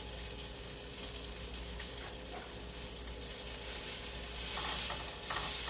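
Halves of a mild Italian sausage sizzling steadily as they fry in grease in a pan.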